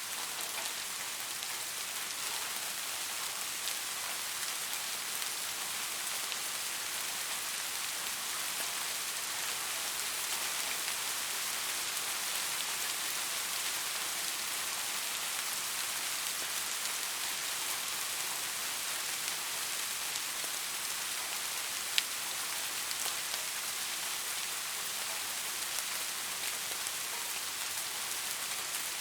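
Steady rain falling: an even, dense hiss of drops on a surface, with one sharp click about three-quarters of the way through.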